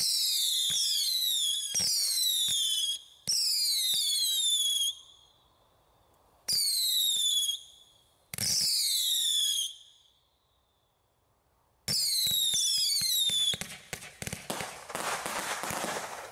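Screaming Ion Storm 200-shot firework barrage firing volleys of screaming mini missiles: several overlapping whistles falling in pitch in each volley, with sharp launch pops, about six volleys with short pauses between. Near the end comes a quick run of bangs and a noisy rush as the finale of red peony star bursts goes off.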